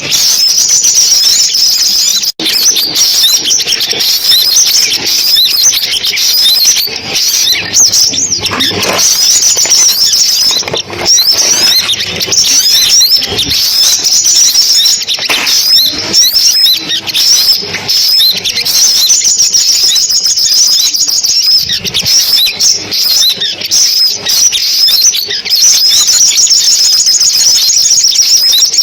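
Sunbirds calling: a dense, continuous stream of high, rapid chirps and trills.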